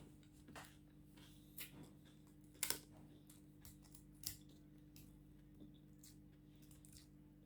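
Faint close-up eating sounds: a few short, sharp crunches and clicks spread over a low steady hum, the loudest a double crack about two and a half seconds in.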